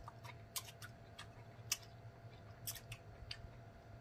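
Close-miked eating sounds: chewing with soft wet mouth clicks and smacks, scattered a few times a second.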